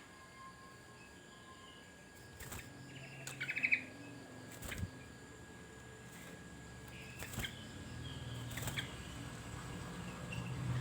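Sooty-headed bulbul (kutilang) giving a quick burst of chirping notes about three seconds in, with fainter chirps later, among a few sharp clicks.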